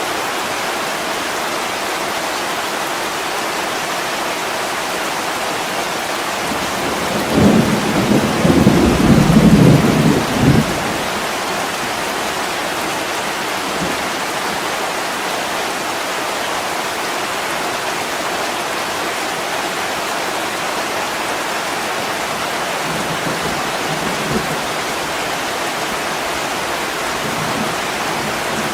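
Heavy rain falling in a steady hiss, with a rumble of thunder about seven seconds in that lasts around three seconds. Fainter low rumbles come again near the end.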